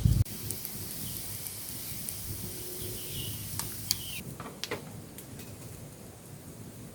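Steady rain hiss in the forest, with a loud low thump at the very start and a few short bird chirps in the middle.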